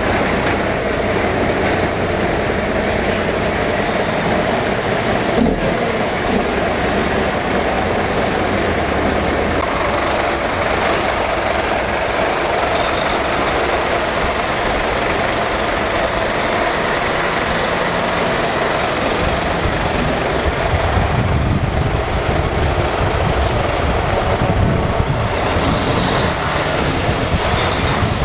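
Heavy trucks' diesel engines running as the trucks drive past in a steady procession. The engine sound grows louder about two-thirds of the way through, as a truck passes closer.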